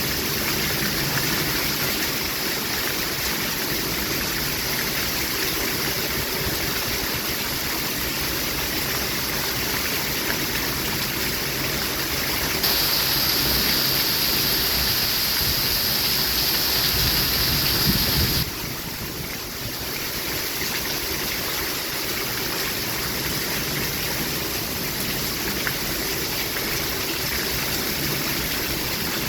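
Steady hiss of falling rain. About halfway through, the hiss turns louder and brighter for about five seconds, then cuts back suddenly to a quieter patch before settling to its steady level.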